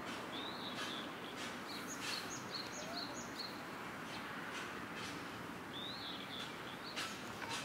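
Small birds chirping on and off, short high calls scattered throughout, over a steady background of outdoor noise.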